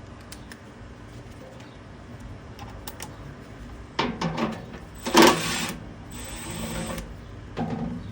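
A tool working a 7/16-inch nut on an HVAC blower motor mount: scattered light clicks, then a few short, louder mechanical bursts about four to five seconds in, a steady whir lasting about a second, and a last short burst near the end.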